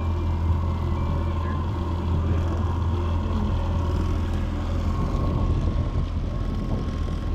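Carbureted outboard motor running steadily at trolling speed, its throttle held by a Troll Master servo: a constant low hum with no change in pitch.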